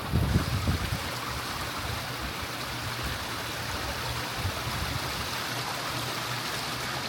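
Steady rush of running water, as of a stream or waterfall. A few low thumps sound in the first second.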